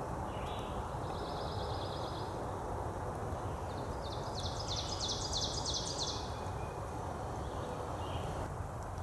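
Small songbirds singing over a steady low rumble of outdoor background noise. A short, high trill comes about a second in, and a louder, higher run of quick notes comes around the middle.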